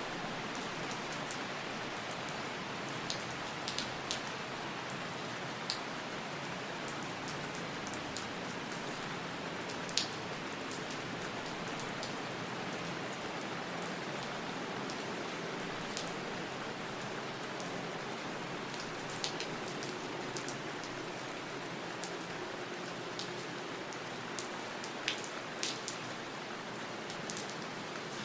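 Steady rain falling, an even hiss with scattered sharp drops ticking on a hard surface.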